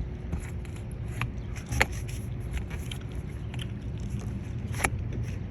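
Wire coat hanger clicking and scraping against a car door as it is worked in to reach the lock, with a sharp click about two seconds in and another near the end, over a steady low rumble.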